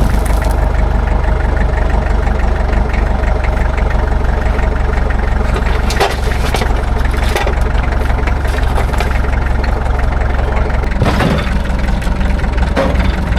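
A vehicle engine idling steadily, with a couple of brief knocks around the middle and near the end.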